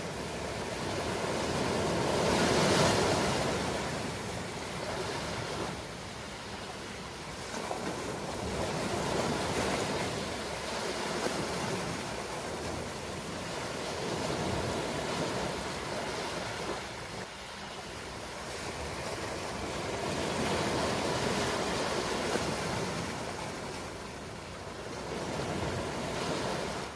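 Ocean waves breaking and washing on a shore, a steady rush of surf that swells and ebbs every few seconds as each wave comes in, the strongest about three seconds in.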